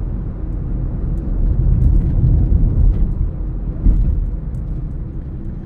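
A car driving, heard from the moving car: a steady low rumble of road and engine noise that swells around the middle.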